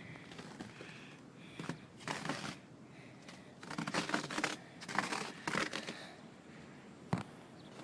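Irregular bursts of rustling and crinkling noise, with a single sharp click near the end.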